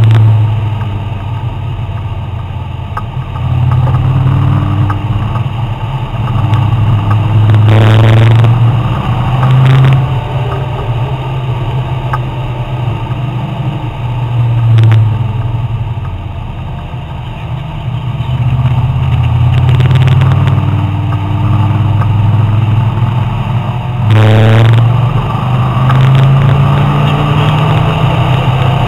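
Sports car engine heard from inside the cabin while lapping a race track, its note rising and falling with throttle and braking. Two sudden sharp changes in the engine note come about eight seconds in and again about sixteen seconds later.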